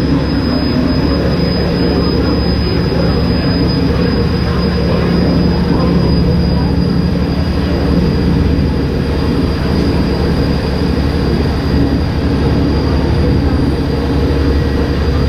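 Ferryboat's engine running at a steady cruise, a loud low drone with a constant hum.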